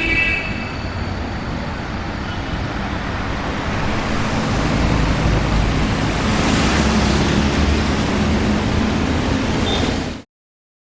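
A car driving past, its engine rumble and tyre noise swelling about halfway through, then the sound cuts off abruptly near the end.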